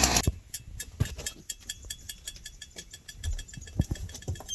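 Chainsaw engine running, then cut off abruptly about a quarter second in, followed by scattered light clicks and rattles.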